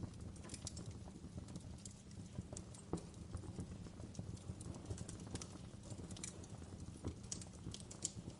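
Wood fire burning in a fireplace: irregular crackles and pops over a low steady rumble.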